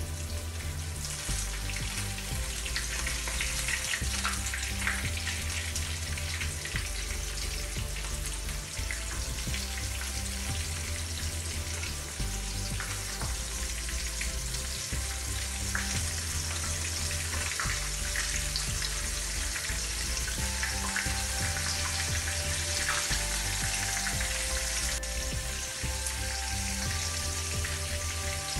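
Breaded shrimp frying in hot oil in a frying pan: a steady sizzle with frequent small crackles and pops.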